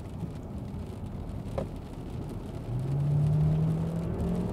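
Kia Sportage plug-in hybrid's 1.6-litre petrol engine under hard acceleration, heard from inside the cabin. It is a well-muted, somewhat characterless drone over road rumble, which swells about two-thirds of the way in into a steady low engine note climbing slightly in pitch.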